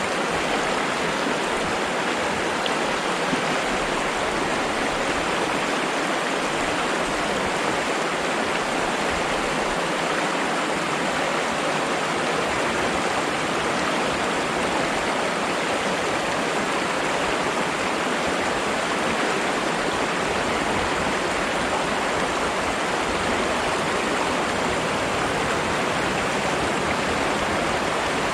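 Flowing water rushing steadily, an even, unbroken sound with no pauses or changes.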